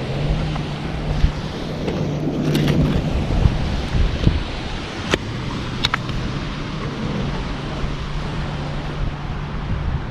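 Wind buffeting the microphone over surf breaking on the beach, with a steady low hum underneath and a few short sharp clicks.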